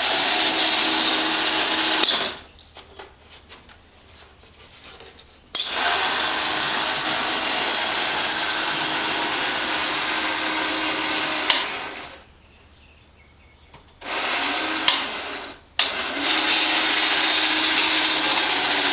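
Battery-driven motor and Zazoom engine-noise mechanism of a 1965 Marx Big Job toy dump truck running with a loud steady whir. It cuts off and starts up again three times: stopped for about three seconds after two seconds in, again for two seconds past the middle, and for a moment shortly after.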